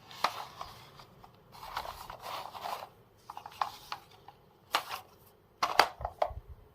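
Handling noises: sharp clicks and knocks mixed with rustling, as small hard objects are picked up, turned over and put down by hand.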